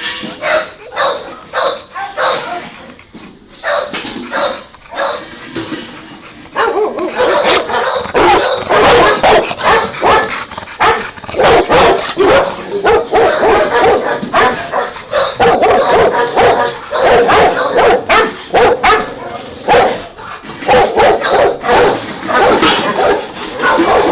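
Several dogs barking and yipping at once. Scattered barks become a much louder, continuous din of overlapping barks about six seconds in.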